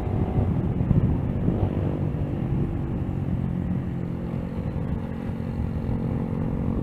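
Motorcycle engine running as the bike is ridden, with rough low noise in the first couple of seconds, then a steadier engine note.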